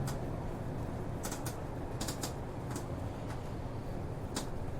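Inside a city bus: the low steady rumble of the bus's diesel engine, with sharp irregular clicks and rattles from the cabin, as the bus pulls in to a stop.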